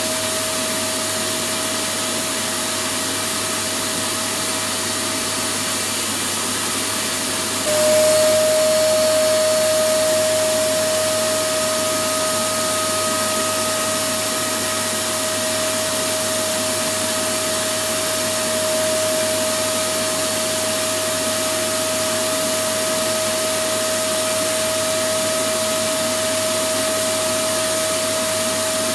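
Electric vacuum cleaner motor running steadily: a whooshing rush of air with a steady whine over it. About eight seconds in it suddenly gets louder and the whine drops slightly in pitch, then the loudness eases back over the next few seconds.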